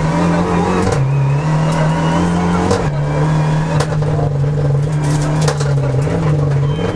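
Renault Mégane N4 rally car's engine heard from inside the cabin, running hard at high revs under full throttle, its note dropping at gear changes about a second in and again near three seconds before pulling up again. A few sharp clicks come through during the run.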